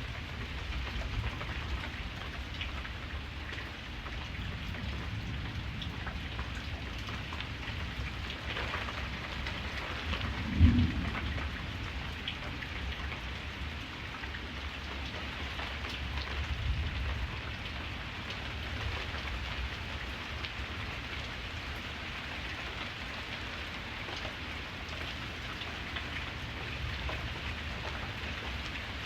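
Steady rain falling, with low rumbles of thunder underneath. A sudden loud low thump comes about ten seconds in, and another rumble swells a few seconds later.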